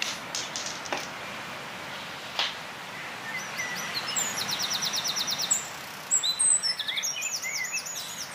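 Small songbirds chirping and singing over a steady background hiss, with a rapid trill about four seconds in and a run of repeated whistled notes near the end. A short sharp click about two and a half seconds in.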